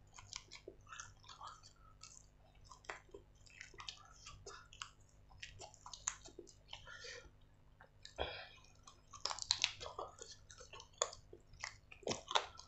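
Close-up mouth sounds of a man eating roasted chicken: chewing, biting meat off the bone, and wet lip smacks and clicks, getting louder and busier about eight seconds in.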